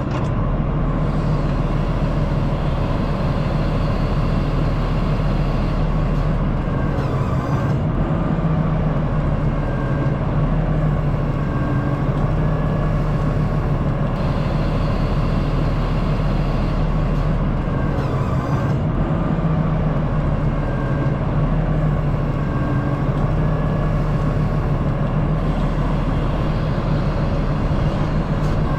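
Diesel engine of the excavator carrying the grapplesaw, running steadily.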